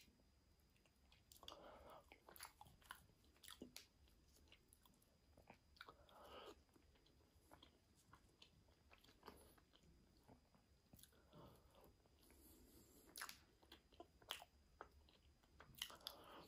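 A person chewing and biting food close to the microphone: quiet, irregular crunches and wet mouth clicks, with a few short bouts of chewing.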